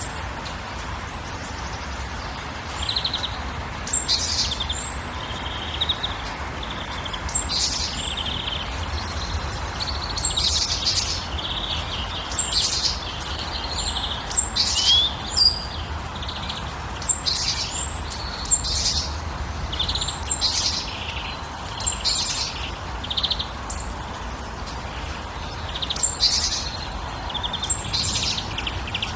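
Wild birds chirping and singing, short high calls and brief trills repeating every second or two, over a steady background hiss.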